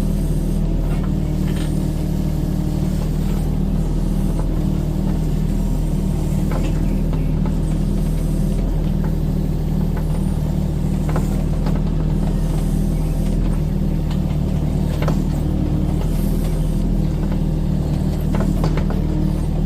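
Kubota mini excavator's diesel engine running steadily under work, with scattered clicks and knocks from the screening bucket.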